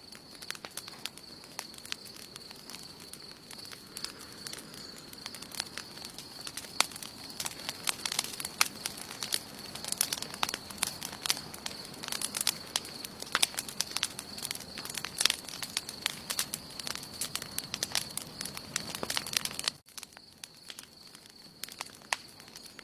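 Wood campfire burning, with frequent sharp crackles and pops over a soft hiss of flame and a thin steady high tone. About twenty seconds in the sound drops out for an instant, and the crackling is sparser after it.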